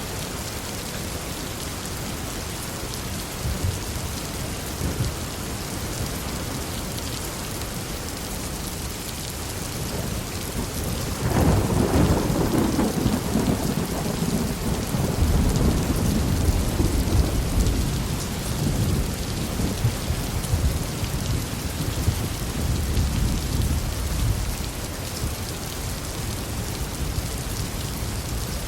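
Steady heavy rain, with a long roll of thunder breaking sharply about eleven seconds in and rumbling for several seconds before fading back under the rain.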